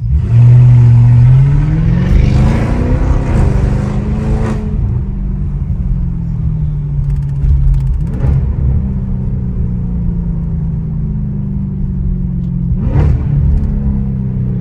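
Straight-piped Audi S7 exhaust under hard acceleration: a loud burst of engine note that climbs steadily in pitch for about four seconds, then drops away and settles into a steady lower drone while cruising, with a couple of brief sharp bursts later on.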